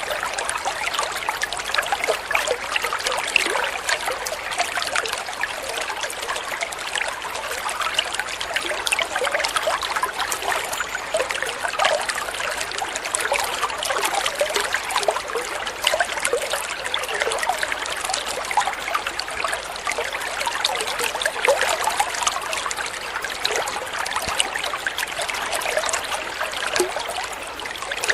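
Water flowing and trickling steadily, a dense patter of small splashes with little low rumble.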